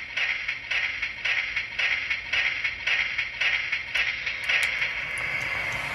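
Model locomotive's ProtoSounds sound system playing a rhythmic hissing run sound, about three pulses a second, which gives way to a steady hiss near the end.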